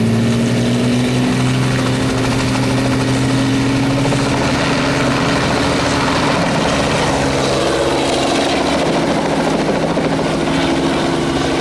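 Helicopter turbine and rotor running loud and steady, with one engine tone rising slightly in pitch over the first few seconds.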